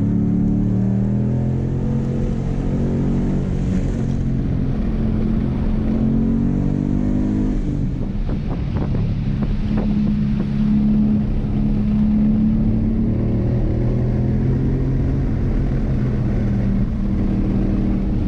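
2016 Mustang GT's 5.0-litre V8 running hard during a timed autocross run, its engine note holding, stepping up and dropping with throttle and shifts. The note dips about eight seconds in, and a few sharp knocks follow over the next two seconds.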